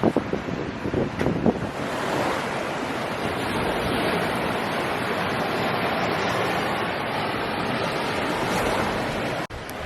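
Ocean surf washing on the beach, a steady rushing hiss mixed with wind on the microphone, with a few light knocks in the first second and a half; it cuts off suddenly just before the end.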